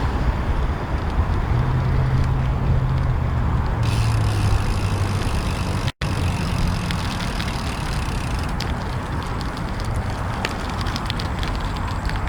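Road and traffic noise heard from a moving bicycle, with heavy low rumble and a low vehicle engine hum from about two to five seconds in. The sound cuts out for an instant about six seconds in.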